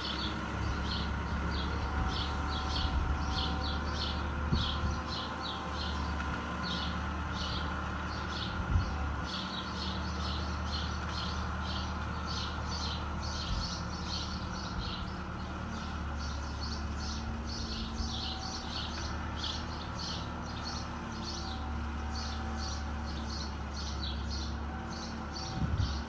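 Small birds chirping in quick, repeated short notes, over the steady low drone of a distant Fiat 766 DT tractor running with its side-arm mower.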